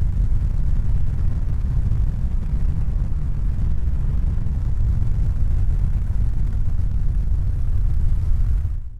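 Steady, loud low rumbling noise with no distinct tones, fading out and cutting off just at the end.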